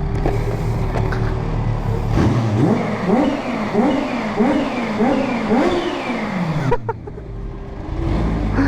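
Kawasaki Ninja H2's supercharged inline-four idling, then revved up and down in several quick blips, the pitch climbing and falling each time, before it drops back to idle.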